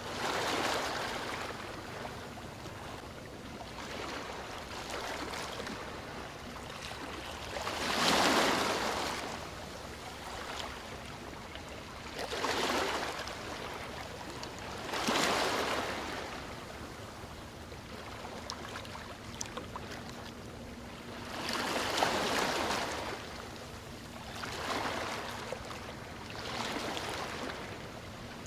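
Sea waves washing onto the shore, each wave a swelling rush that builds and fades every few seconds, the largest breaking about eight seconds in and again near twenty-two seconds.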